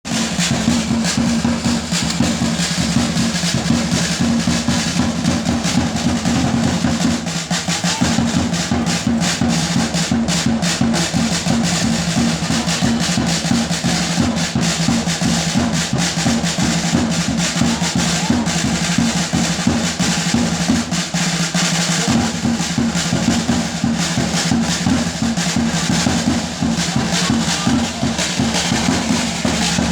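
Music of fast, continuous drumming, with snare and bass drum strokes packed closely together like a drum roll.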